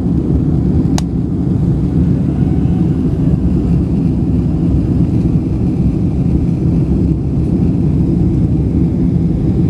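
Steady loud rumble of jet engines and airflow heard inside the cabin of a Boeing 767-300 airliner after takeoff. There is a single sharp click about a second in.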